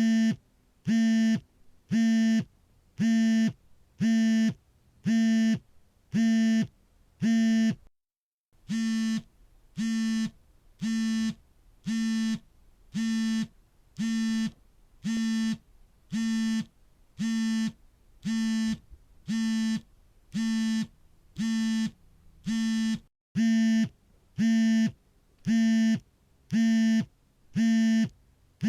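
Smartphone vibration motor buzzing for an incoming call: even pulses of about half a second, roughly one a second, each a steady low buzz. The rhythm breaks briefly twice, about eight seconds in and again near the 23-second mark.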